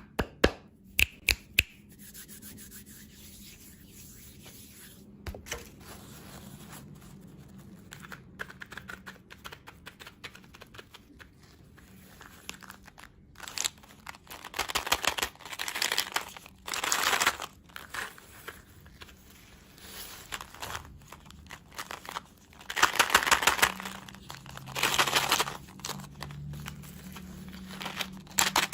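Plastic wrapper crinkling and tearing in several loud, crackly bursts, after a few sharp clicks near the start.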